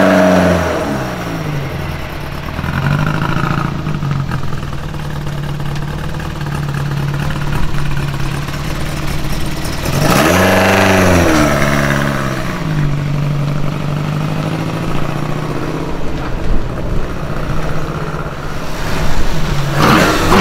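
Lancia Fulvia Zagato 1600's freshly rebuilt 1.6-litre V4 engine running at a steady idle as the car rolls slowly, with a rev that rises and falls about halfway through and another near the end.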